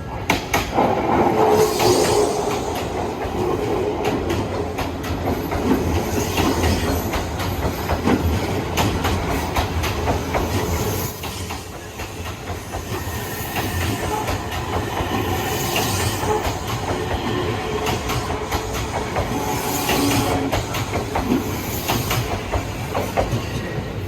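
Odakyu Odawara Line electric trains running past at a level crossing, wheels clacking over rail joints over a steady rumble, with a brief lull about eleven seconds in.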